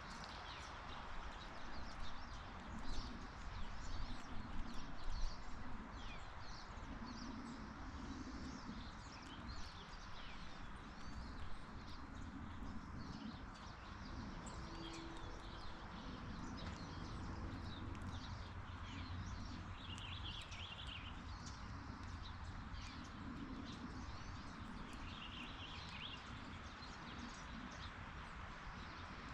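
Outdoor backyard ambience: a steady background hiss with irregular tapping and clicking in the first few seconds, and a few short bird calls later on.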